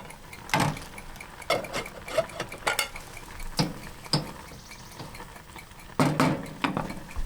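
A utensil stirring and scraping in a pan of mushroom-and-cream sauce, with irregular clinks against the pan and a louder clatter about six seconds in.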